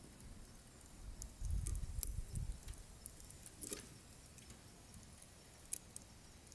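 Wood fire burning in a wood stove, crackling with scattered small pops and sharper pops just under four seconds and near six seconds in. A low rumbling swell rises and falls around two seconds in.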